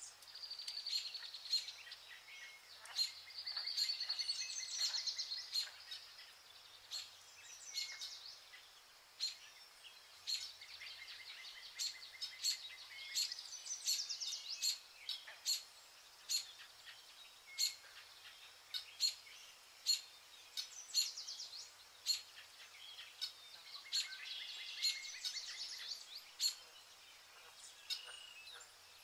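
Small birds chirping: a string of short sharp chirps about once a second, with fast high trills now and then.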